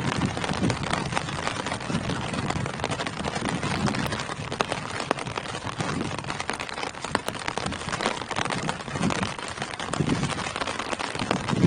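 Steady rain falling on tree leaves: a dense patter with many separate drops striking.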